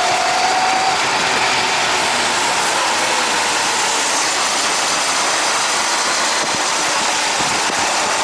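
Riding noise from a Honda CBR600RR: its inline-four engine running under a steady rush of wind, with a faint steady tone in the first second.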